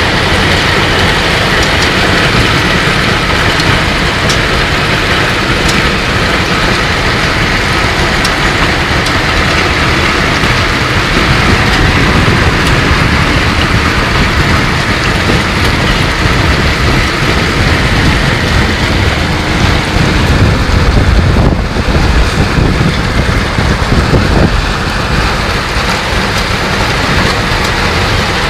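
Hailstorm: hail and heavy rain pelting down in a loud, dense, steady hiss, with a deeper rumble swelling from about twenty seconds in.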